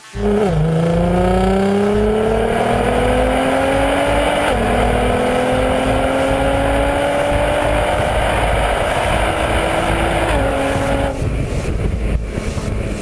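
Nissan GT-R R35's twin-turbo V6 with a full stainless-steel sports exhaust, accelerating hard through the gears. The revs climb steadily, drop at an upshift about four and a half seconds in, climb again, drop once more near ten seconds, and the engine note falls away about eleven seconds in.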